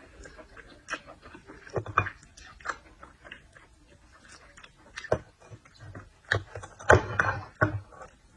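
Close-miked eating sounds of a person chewing seafood: wet smacking and sharp little clicks, with a louder, noisier burst about seven seconds in.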